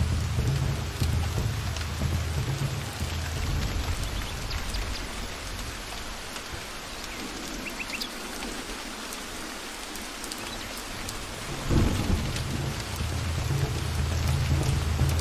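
Steady forest rain, with low rolling thunder that fades away around the middle. A sudden louder thunder clap comes about 12 seconds in, and the rumbling carries on after it.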